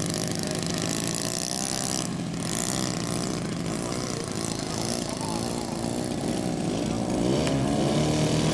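Small model airplane engine running, its pitch rising and falling, and growing louder near the end.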